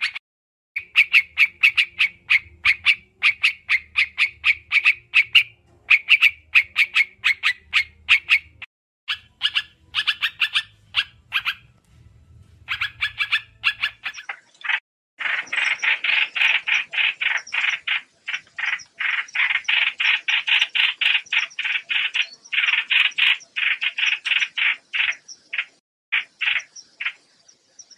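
Trao trảo bird lure call: fast, sharp, repeated notes, several a second, in runs of a few seconds broken by short gaps. The runs grow denser and louder about halfway through.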